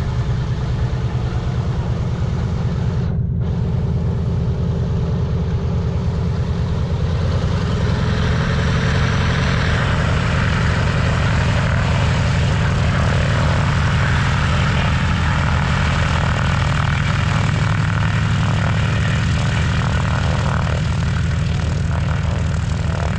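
Boeing B-17's four radial piston engines droning steadily in a low-pitched multi-engine drone as the bomber flies its display, growing fuller and louder about eight seconds in as it comes closer.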